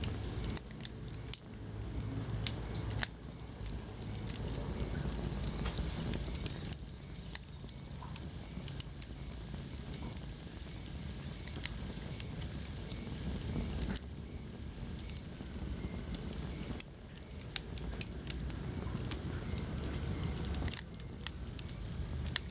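Wood fire burning in a fireplace: frequent sharp crackles and pops over a low rumble of the flames, with a faint high whistle in the middle.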